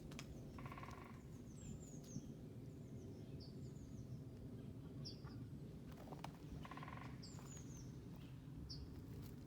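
Sheep bleating faintly, two short calls about six seconds apart, with small birds chirping throughout over a low outdoor rumble.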